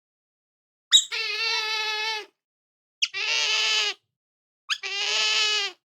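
Otter calling: three drawn-out high-pitched calls of about a second each, each opening with a short sharp chirp.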